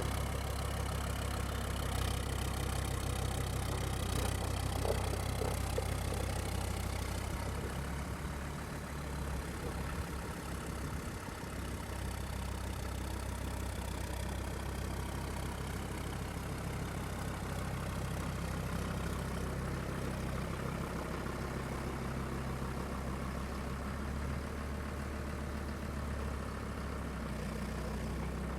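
Kubota M-120 tractor's diesel engine idling steadily, turning a little quieter about seven seconds in.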